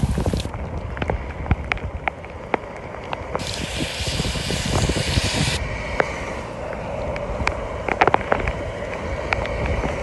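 Rain falling, with many separate drops ticking sharply against a hard surface, and wind rumbling on the microphone.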